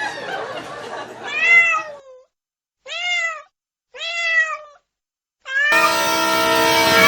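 A cat meowing three times, each meow a short arched call, with dead silence between. Near the end a loud, steady train horn blast cuts in.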